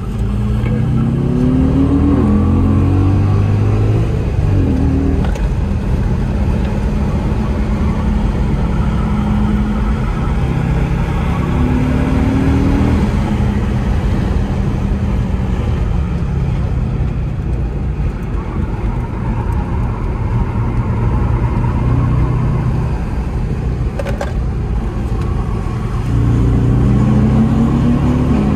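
A car's engine heard from inside the cabin while lapping a race track, pulling hard with revs climbing in several long rises (near the start, about halfway through, and near the end) over steady tyre and road noise.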